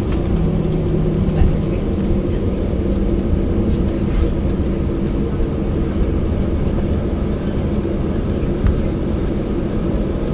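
Cabin noise inside an Airbus A319 during landing: a steady low rumble of engines, airflow and the airframe. A pitched hum fades out about two seconds in.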